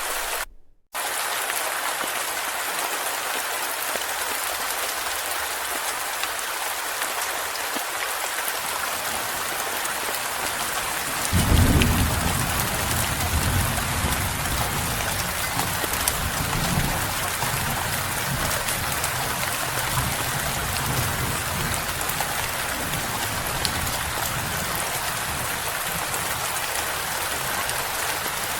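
Steady rain falling, with a low roll of thunder swelling about eleven seconds in and rumbling on afterwards. The sound cuts out completely for about half a second near the start.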